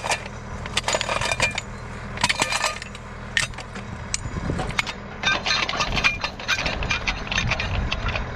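Portable sawmill's engine running steadily to power the hydraulics, with repeated metallic clanks and rattles from setup work.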